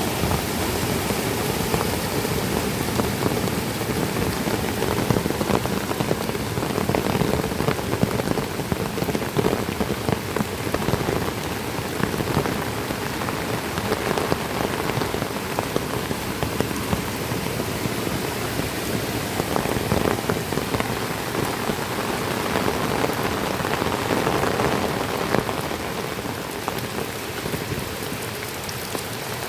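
Heavy tropical rain falling steadily, dense with the ticks of individual drops striking surfaces.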